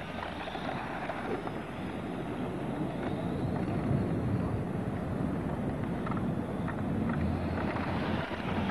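Radio-control model cars running around a racing track, heard through wind buffeting the microphone as a steady, rough noise without a clear pitch.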